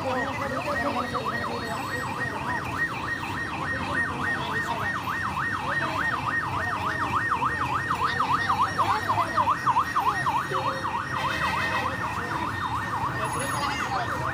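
An electronic siren in fast yelp mode, its tone sweeping up and down about four times a second without a break, over low background noise.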